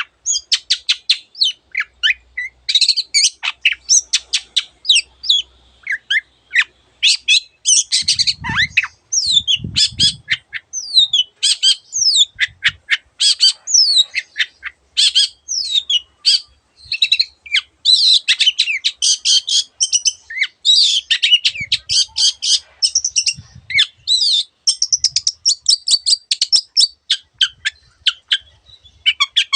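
Long-tailed shrike singing a fast, nearly unbroken string of high chirps, quick rising and falling whistles and harsh notes, a song that mixes in imitations of other birds' calls. A few low thuds come in around eight to ten seconds in.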